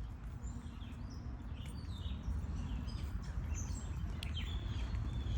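Birds chirping now and then in short, high calls over a steady low rumble.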